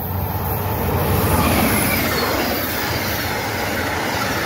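Amtrak passenger train passing close by: a low steady engine hum as the locomotive comes up, then the rush of the coaches' wheels on the rails, with short high-pitched squeals.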